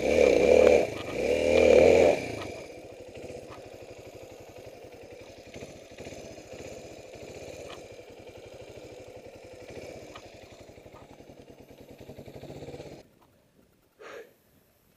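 Suzuki DR350's single-cylinder four-stroke engine revved hard twice, then idling steadily for about ten seconds before cutting out suddenly.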